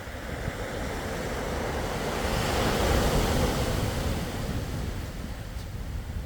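Sea waves washing in, one swell of surf building to its loudest about three seconds in and then easing off, over a low rumble of wind on the microphone.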